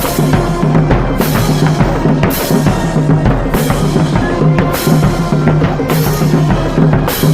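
High-school marching band playing: low brass holding a steady bass line under drums, with cymbal crashes about once a second.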